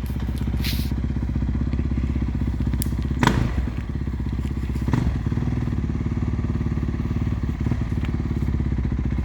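Enduro motorcycle engine running steadily with a low, even putter, with two sharp knocks about three and five seconds in.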